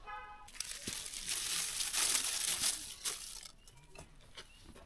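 Crinkling, rustling noise with many sharp crackles for about three seconds, then fading.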